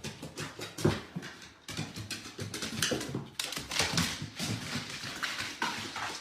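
A dog's sounds with many quick, irregular taps and clicks, breaking off abruptly twice.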